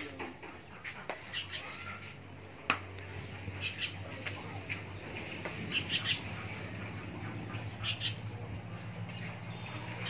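Small birds chirping: short high chirps in little clusters every second or two, over a low steady hum, with a single click about a third of the way in.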